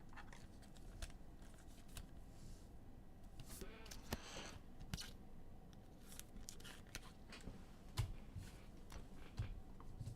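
Faint handling of trading cards and their plastic holders and packaging: light clicks and rustling, with a longer scraping rustle about four seconds in and a couple of soft knocks near the end.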